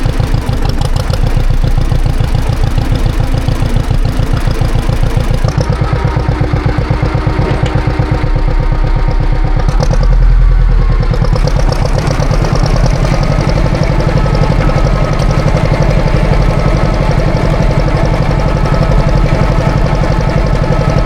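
John Deere tractor engine running steadily in a fast, even beat. About ten seconds in there is a brief loud surge in the low end, and the note then settles fuller and steadier as the throttle or load changes.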